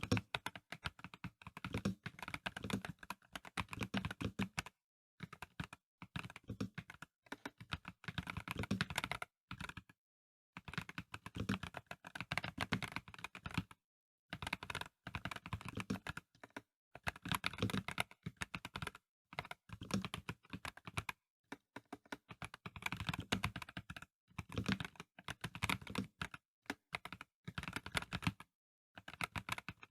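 Typing on a Dareu A98 Pro mechanical keyboard with non-clicky VioletGold Pro switches: fast runs of keystrokes with the keys bottoming out, broken by short pauses every few seconds.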